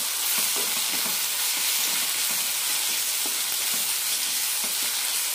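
Chopped tomatoes and onions sizzling in oil in a nonstick frying pan, stirred with a wooden spatula in soft, irregular scraping strokes under a steady hiss.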